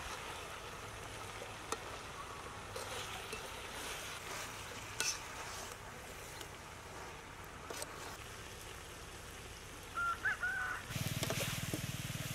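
Greens and meat sizzling and frying in a wok over a charcoal stove, with a spatula stirring and clicking against the pan. A chicken calls briefly about ten seconds in, and near the end a louder steady low hum joins in.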